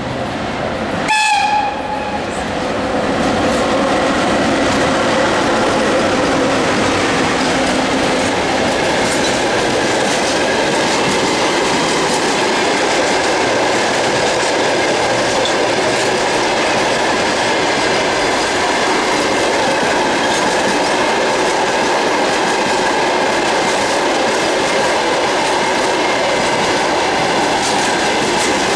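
A short blast of an electric locomotive's typhon horn about a second in, then the steady rolling clatter of a freight train passing on the rails.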